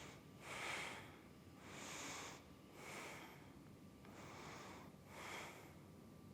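A woman breathing audibly while holding a yoga balance pose: five or six faint breaths, roughly one a second.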